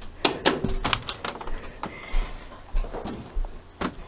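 Irregular sharp clicks and knocks, several a second, with a short high beep about two seconds in.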